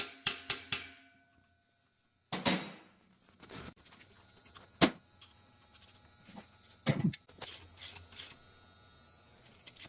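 Metal-on-metal taps, about four a second with a short ring to each, which stop abruptly just under a second in. After a short gap come scattered knocks, a sharp click and a few clunks of parts and tools being handled on the engine.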